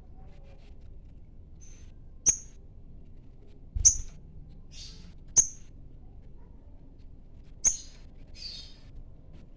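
Sogon bird in breeding condition calling to a rival: four sharp, high chirps spaced a second or two apart, with softer raspy notes between them.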